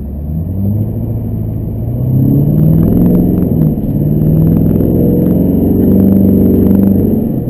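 Chevrolet Duramax LB7 6.6-litre V8 turbodiesel pickup accelerating hard, heard from inside the cab: the engine note climbs, dips briefly about three and a half seconds in as it shifts gear, then climbs again before easing off near the end.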